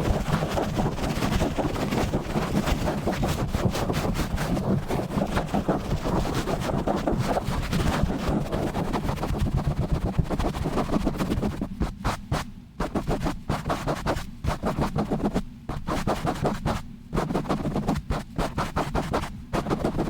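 Fast, rough scratching and rubbing directly on a microphone, dense rapid strokes with a heavy low rumble from the contact. About two-thirds of the way through it turns choppier, with short breaks between bursts.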